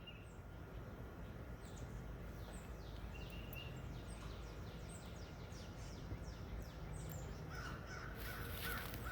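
Distant crows cawing, with a chorus of other birds giving many short, high, falling calls over and over; the calling thickens near the end.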